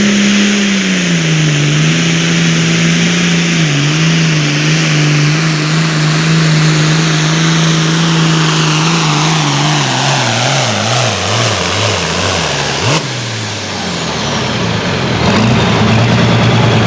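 Turbocharged diesel pulling tractor's engine under full load during a pull. Its pitch drops a step early on and holds, then sags and wavers as the engine bogs down under the sled. About 13 s in the throttle comes off with a sharp click and a falling turbo whistle, and the engine settles to a lower, steady note.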